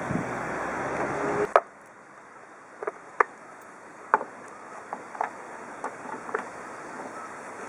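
Small lawn mower engine running with a steady buzz that stops abruptly about a second and a half in, followed by scattered light clicks and knocks.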